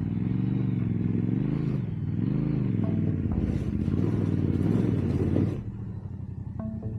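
Yamaha Ténéré 700 motorcycle engine revving up and down in repeated swells as the rear wheel spins in deep gravel on a hill climb that fails. The revs cut off suddenly after about five and a half seconds.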